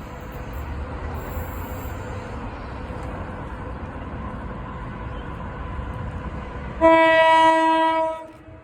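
Train running with a steady low rumble, then a single train horn blast about seven seconds in, lasting about a second and a half and much louder than the rumble.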